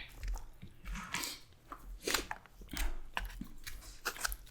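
Close-mic chewing and mouth noises of people eating Chinese takeout food, in short irregular bursts and clicks.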